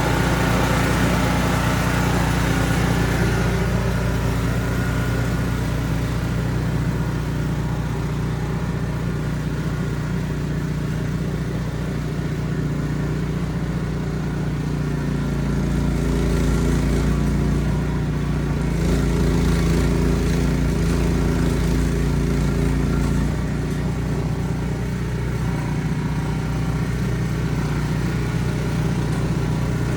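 Ariens Platinum 24" SHO two-stage snow blower running steadily, growing a little louder for several seconds past the middle.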